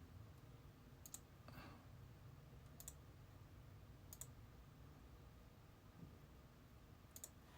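Near silence: low room hum with four faint, sharp clicks spaced irregularly, about a second in, near three seconds, around four seconds and near the end.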